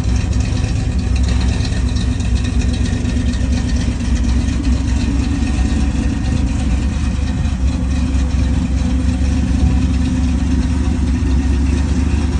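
Truck engine running steadily and loud, with a deep, even low rumble that holds the same pitch throughout.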